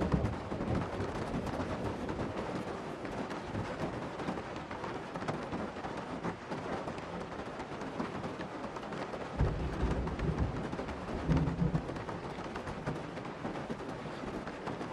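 Steady heavy rain with low thunder rumbles. The rumbles come once at the start and twice more about nine and eleven seconds in.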